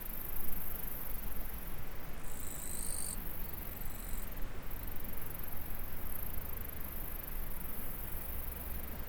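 A steady high-pitched chorus of insects over the continuous rush of a small stream or irrigation channel. A second, lower high trill joins for about two seconds, a little after the start.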